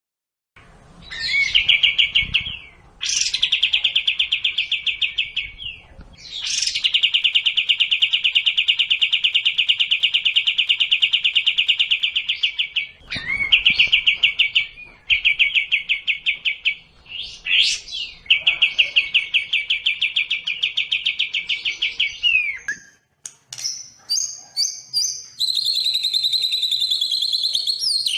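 Songbird song from a cage-bird training recording. Several long, rapid, buzzy trills last a few seconds each, and near the end they give way to quicker, varied, higher-pitched whistled notes.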